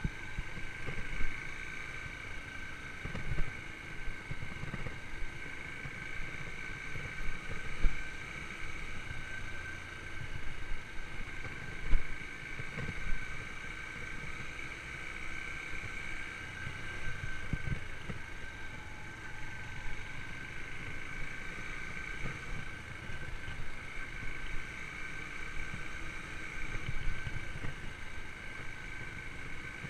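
Yamaha YBR125's single-cylinder four-stroke engine running at a steady speed while riding, with a steady high whine throughout. Irregular low thumps and knocks run under it, the loudest about twelve seconds in.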